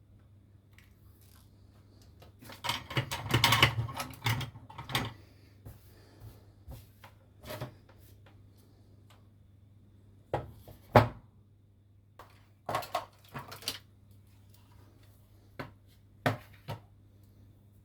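Hand tools and small parts handled on an electronics workbench: a run of scraping, rubbing and knocking about three seconds in, then scattered sharp clicks and taps, over a faint steady low hum.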